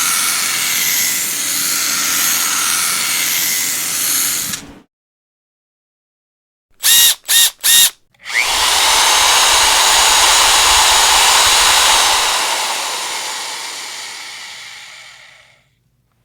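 Electric power drill running steadily, then stopping. After a short pause it gives three quick trigger blips, then runs again for several seconds and slowly fades out.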